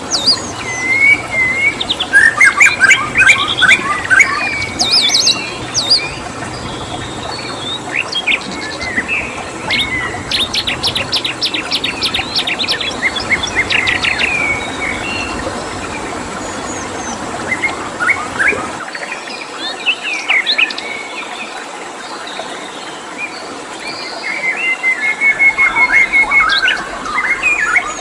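Several songbirds chirping and singing in quick, overlapping phrases, with a fast trill about ten seconds in, over a steady background hiss.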